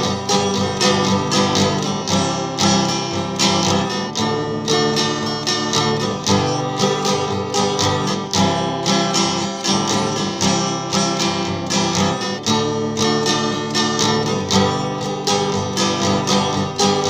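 Instrumental break of a country-folk song: acoustic guitar strummed in a steady rhythm, with no singing.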